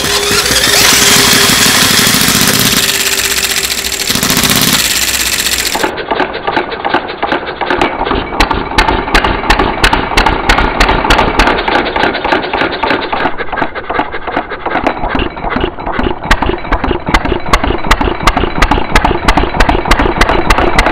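Mini 6cc gasoline model engine: a loud steady whirring noise for the first several seconds, then from about six seconds in the engine running with a rapid, even run of firing pulses.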